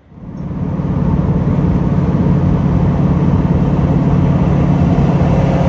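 Van driving on the road: a steady engine hum and road noise that comes up quickly at the start and then holds even.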